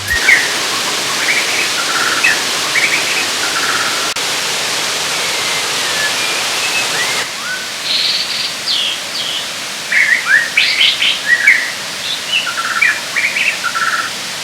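Steady rush of a waterfall with birds chirping over it, a few short calls at first and a busier run of chirps in the second half.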